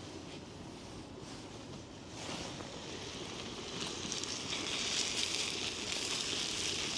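Sliced steak and vegetables frying over low heat, a steady sizzle that grows louder about four seconds in.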